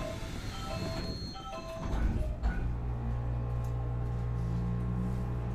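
Short chiming melody notes, as of a station departure melody, in the first two seconds. About two seconds in, a steady low hum from the standing Nankai 8300 series train's onboard equipment starts and carries on.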